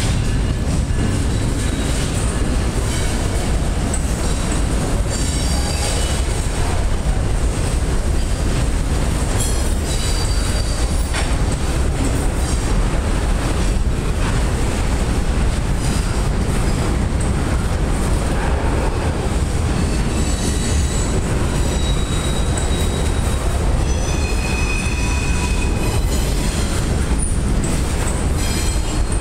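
Double-stack intermodal well cars rolling past on jointed track, a steady loud rumble of wheels on rail. Brief high-pitched wheel squeals come and go several times.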